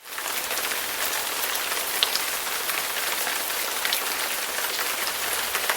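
Steady rain falling, an even hiss with scattered louder drop ticks, fading in at the start.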